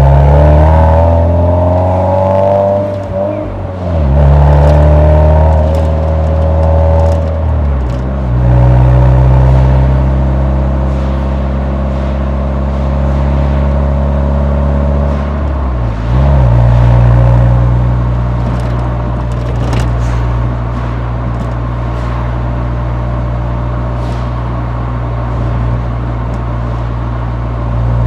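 Nissan 180SX's exhaust note from the muffler while driving: the engine pulls several times with the revs briefly dipping between pulls, then settles into a steady, even drone at cruising revs.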